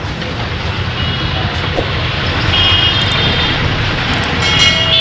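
Steady low rumble of a lorry on the move, engine and road noise together. Two short high tones come through over it, about halfway through and near the end.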